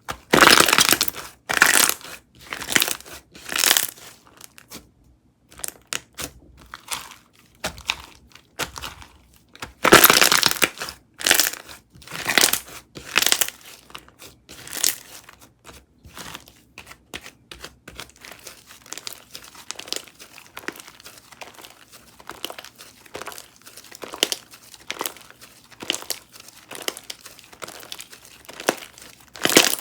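Slime being squished, folded and stretched by hand, giving irregular bursts of crackling and crinkling, with a denser run of small crackles in the second half.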